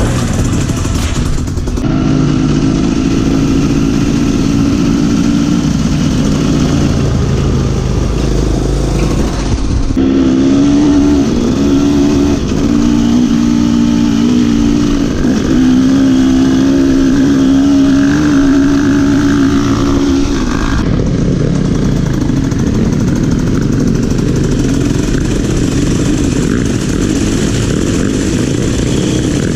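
Trail motorcycle engine running under way, its pitch rising and falling with the throttle over a steady rushing noise. The sound breaks off and changes abruptly three times, at edit cuts.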